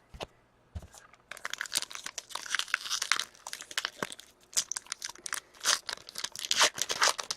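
Crinkling and tearing of a trading-card pack's foil wrapper as it is opened by hand, a dense run of crackles starting about a second in.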